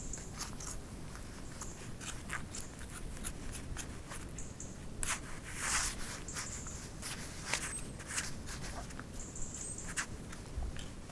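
Footsteps crunching through crisp snow in an irregular walking rhythm, with brief high squeaks from the snow and a steady low wind rumble underneath.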